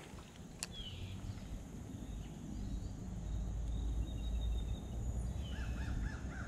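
Birds calling in the background over a low steady outdoor rumble, with a single click about half a second in. Near the end one bird gives a quick run of about five looping, wavering notes.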